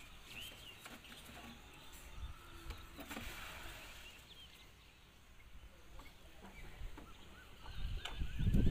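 Small birds chirping in short high calls, with a run of quick repeated chirps near the end, over a low rumble that swells in the last second.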